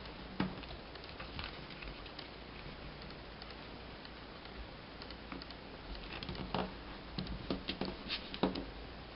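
A sheet of paper being folded and creased by hand: scattered crinkles and light taps, busier in the last few seconds.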